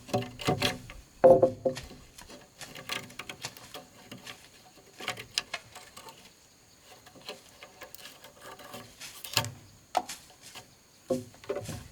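Irregular knocks, taps and light scrapes of bamboo and wood being handled and worked, some knocks with a short hollow ring; louder about a second in and again near the end.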